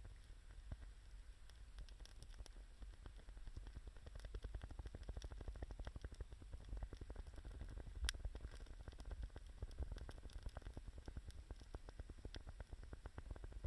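Wood fire crackling, with many small pops close together and one sharper pop about eight seconds in.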